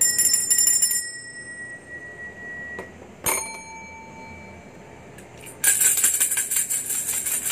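A bell trilled rapidly for about a second, leaving a fading ring. A single bell ding follows a little after three seconds in, then jingling shaken steadily through the last two seconds.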